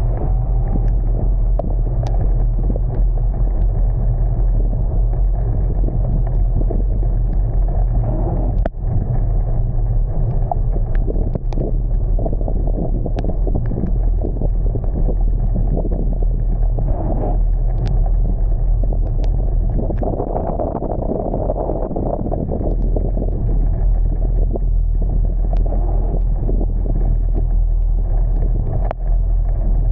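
A car driving in heavy rain: steady low rumble of the engine and road, with scattered sharp taps of rain on the car.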